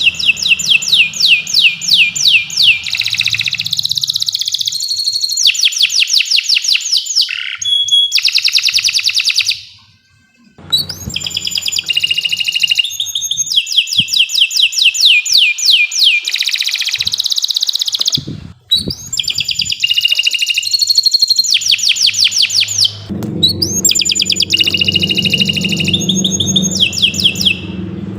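Domestic canary singing a long, continuous song of rapid repeated notes and rolling trills, with two brief pauses partway through. A low hum joins in during the last few seconds.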